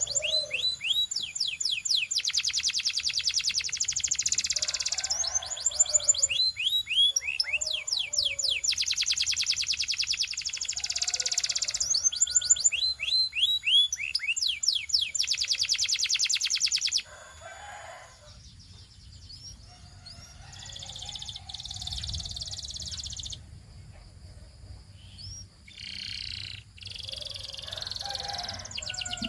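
Canary singing long, rapid rolls of repeated notes and series of falling whistled notes, loud and almost unbroken at first. About two thirds of the way through the song drops to softer, sparser phrases, and the loud rolls return near the end.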